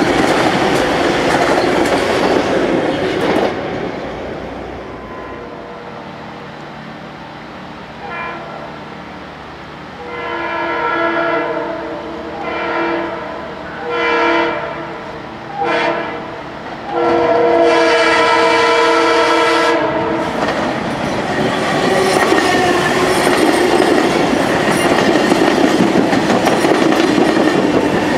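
Long Island Rail Road passenger train rolling past, wheels clattering on the rails. An approaching train then sounds its horn in a series of blasts, some short and some long, the last one the longest, and runs in past with loud wheel and rail noise.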